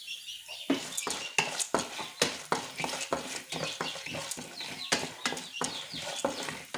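Spoon stirring urad dal, chana dal and mustard seeds in hot oil in a pan: a quick run of sharp scrapes and taps on the pan, several a second, starting a little under a second in.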